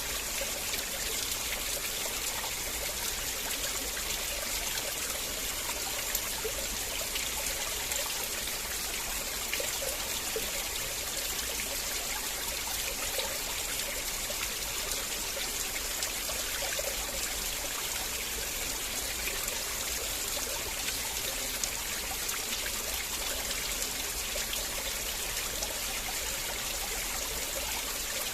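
River water flowing over stones, a steady rushing and trickling with small splashes.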